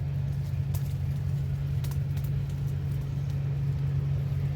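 Steady low engine drone, unchanging throughout, with a few faint clicks over it.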